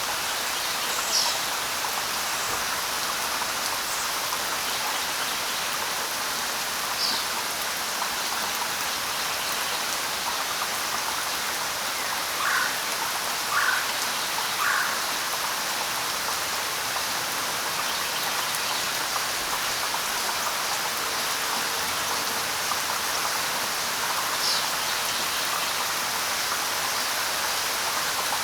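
Steady light rain falling on leaves, with a few short bird chirps scattered through it, including three lower calls about a second apart near the middle.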